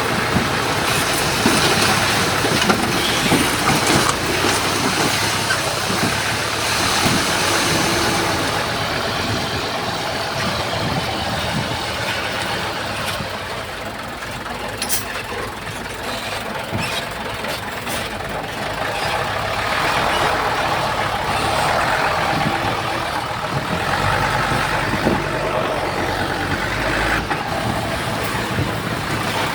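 Heavy diesel earthmoving machinery, a bulldozer and dump trucks, running steadily, with a few sharp knocks or clanks.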